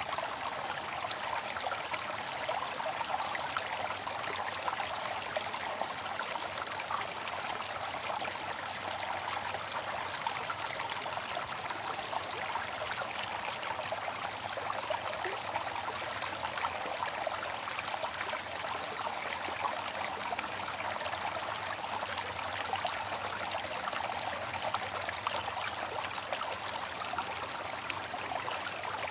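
Water fountain running: a steady splash and trickle of falling water.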